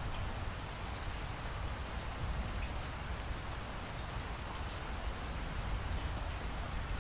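Steady rainfall: an even hiss of rain falling on surfaces, with a low rumble underneath and a few separate drops ticking.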